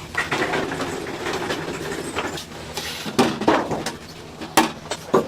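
Clattering and knocking of cooking work at a fried-chicken stall: a rough, busy clatter in the first half, then several sharp knocks.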